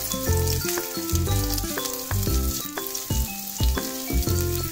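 Garlic, ginger and green chilli sizzling in hot oil in a nonstick kadhai while being stirred with a wooden spatula, with background music and its bass notes playing over it.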